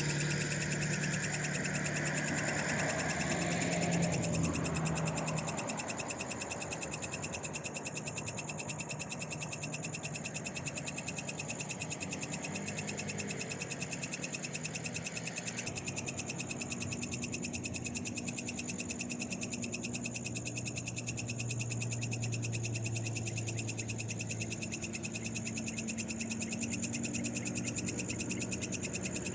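A night chorus of frogs calling steadily in a fast, even pulsing rhythm, over a constant high-pitched trill. A passing vehicle fades out in the first few seconds.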